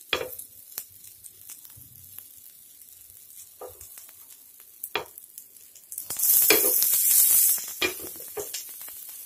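Black-chickpea patties frying in a thin film of oil on a hot nonstick tawa: a light, steady sizzle with a few soft knocks as they are handled. About six seconds in, the sizzle surges loud for over a second.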